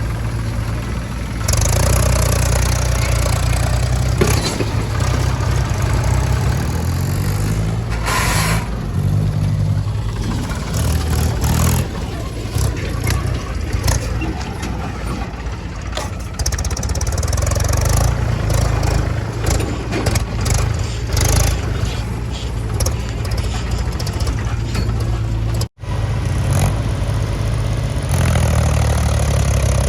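Heavy diesel machinery working: a low engine drone that steps up and down in pitch as it revs and labours, with scattered knocks and clanks. The sound cuts out for an instant near the end.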